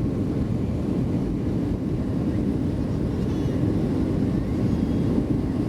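Steady low rumble inside the cabin of a Boeing 757-200 rolling on the ground just after landing: engine and wheel noise heard from a window seat.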